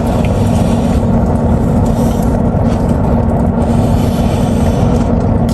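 Steady low rumble with a constant hum: a parked car's engine idling, heard from inside the cabin.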